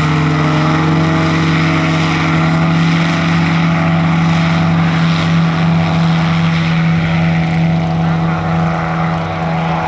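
Radio-controlled model airplane's engine and propeller running steadily at a high, even pitch, easing slightly near the end.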